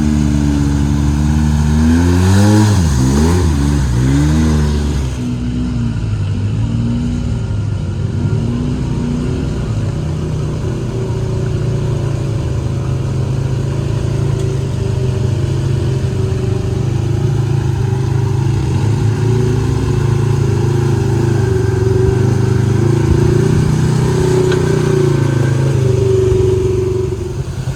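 Side-by-side UTV engine revving up and down a few times, then running steadily under throttle with smaller rises in pitch.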